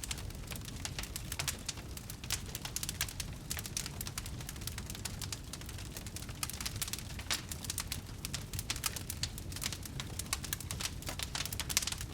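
Wood fire burning, with dense, irregular crackles and pops over a low steady rumble.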